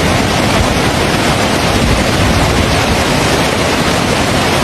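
Fast-flowing floodwater rushing, a loud steady noise, with wind rumbling on the microphone.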